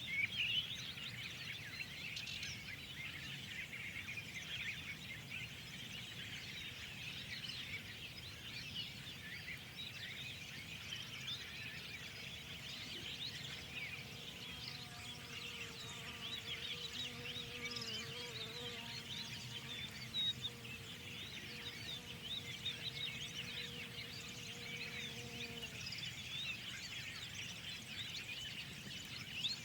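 A dense chorus of many songbirds chirping and twittering over one another, over a low steady background rumble. About midway a faint droning hum joins in for roughly a dozen seconds, then fades.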